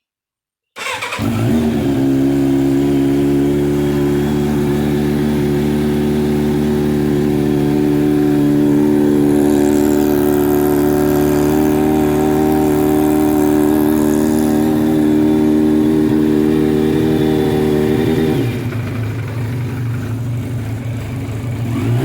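Yamaha FZR750's inline-four engine starting from cold on choke, catching about a second in and settling into a steady fast idle. Near the end the idle drops lower.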